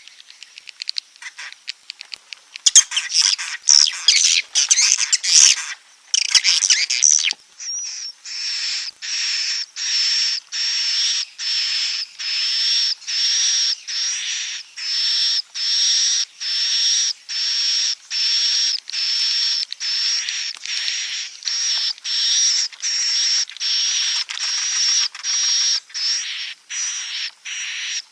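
Swiftlet calls of the kind played in swiftlet houses as a roosting lure. Rapid twittering chatter fills the first several seconds, then gives way to an even run of short, high, buzzy chirps, a little more than one a second.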